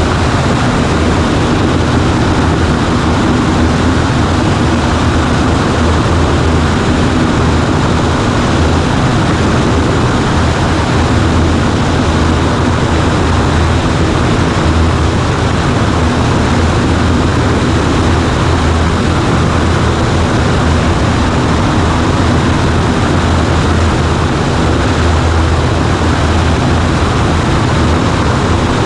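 Cessna 140A's piston engine and propeller running steadily, a loud, even drone with a deep hum underneath and no change in power.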